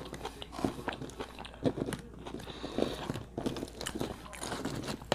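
A person eating close to the microphone: biting and chewing, with irregular crunches and clicks.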